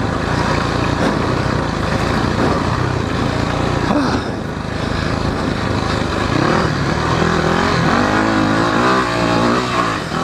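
Yamaha WR400F single-cylinder four-stroke dirt bike engine revving up and down as it is ridden over rough trail, heard from a helmet camera. The pitch dips briefly about four seconds in and swings up and down repeatedly near the end.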